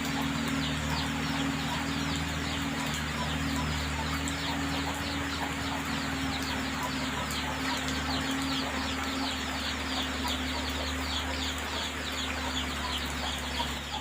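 An engine idling steadily under a dense, rapid chatter of short high-pitched descending chirps from many birds.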